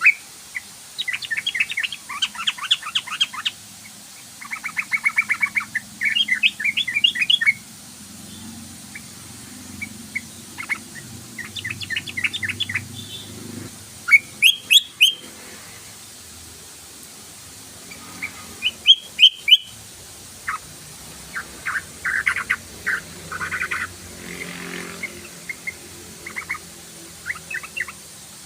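Sooty-headed bulbul (trucukan) singing in a run of quick, bubbly chattering phrases, each a second or two long with short pauses between, as used for a lure call. Two or three sharp clicks cut in around the middle.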